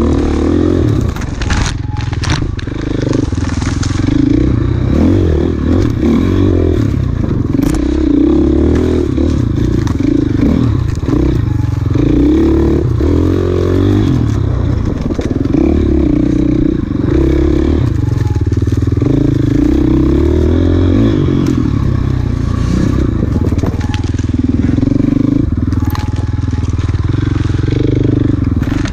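Off-road motorcycle engine running hard through a race course, its pitch rising and falling constantly with the throttle, with a few sharp knocks from the bike over rough ground.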